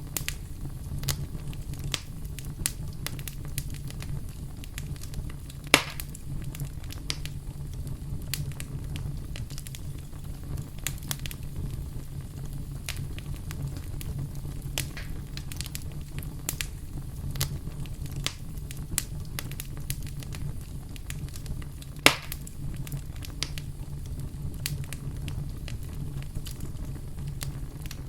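Campfire crackling, with frequent small snaps and two louder pops, one about six seconds in and one about two-thirds of the way through, over a low steady rumble.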